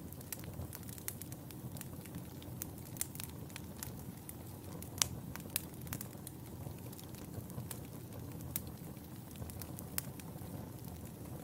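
Wood fire burning in a fireplace: a steady low rumble of flames with frequent irregular crackles and pops, a sharper pop about halfway through.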